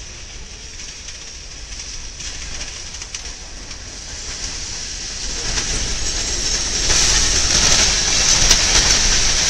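Freight train boxcars rolling past on a curve, with a steady high wheel screech. A grinding noise builds and grows much louder over the last few seconds as a derailed car drags along the track toward the camera.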